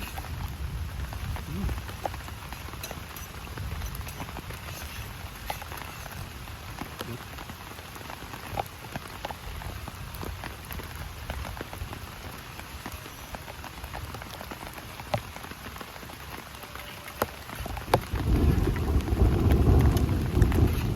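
Heavy rain falling steadily, with many separate drops ticking sharply on nearby surfaces. Near the end a much louder low rumble sets in under the rain.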